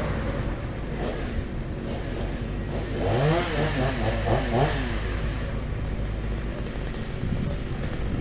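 Chainsaw engine running over a steady low rumble. About three seconds in it is revved up and down several times in quick succession.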